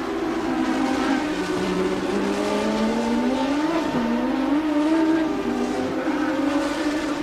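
1988 Formula One race cars' engines running at high revs, one engine note climbing steadily in pitch, dipping sharply about four seconds in, then climbing again, over other engine tones.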